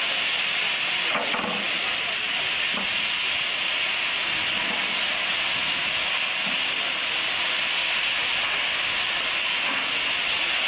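Steam locomotive hissing steam, a steady, even hiss throughout.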